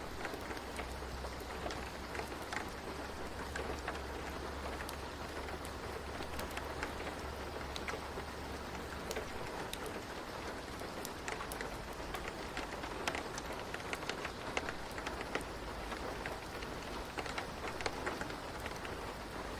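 Steady rain ambience: an even hiss of rainfall with many distinct drops ticking on a surface, over a low steady rumble.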